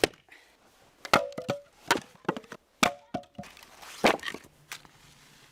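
Wood being chopped: about five heavy strikes roughly a second apart, with lighter knocks between them and a brief ring after some blows.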